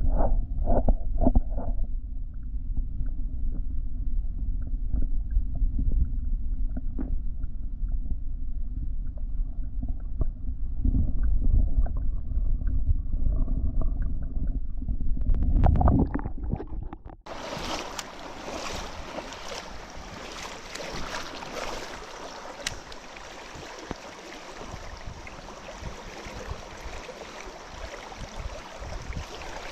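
Muffled low rumbling from a kayak on a river, with scattered knocks and bumps, for about the first half. It then switches suddenly to a steady rushing of moving water and wind, much brighter and fuller.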